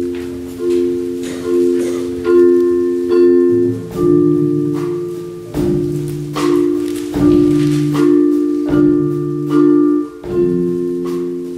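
Percussion ensemble playing music: ringing struck chords, accented about every second, with a lower bass line coming in about four seconds in.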